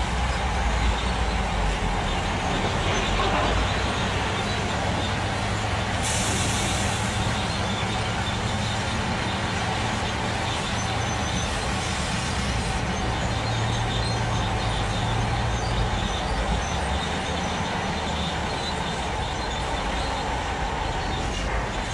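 Heavy truck's diesel engine running steadily, with a short hiss of air about six seconds in.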